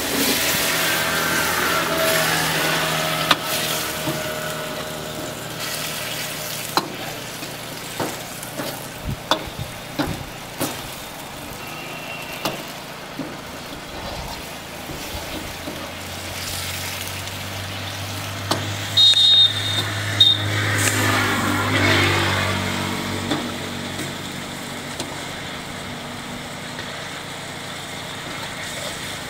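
Chicken masala sizzling in a black iron wok while a long-handled metal ladle stirs it, scraping and clinking sharply against the pan. A low hum swells and fades about two-thirds of the way through.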